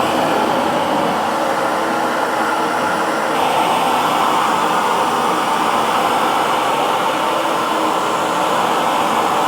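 Hair dryer blowing steadily, a constant whooshing of motor and fan, which becomes slightly brighter in tone about three and a half seconds in.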